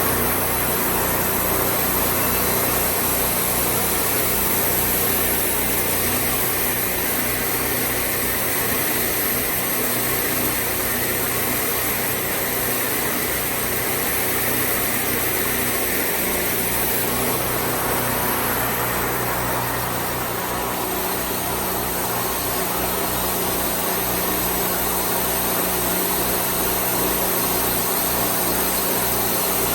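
Wood-Mizer portable band sawmill running steadily, its engine and band blade making a continuous mechanical noise that changes a little in tone about 17 seconds in.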